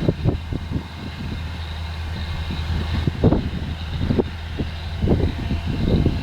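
Harvesting machinery running steadily with a constant low engine drone and a faint high whine, with irregular low thuds and rumbles on top.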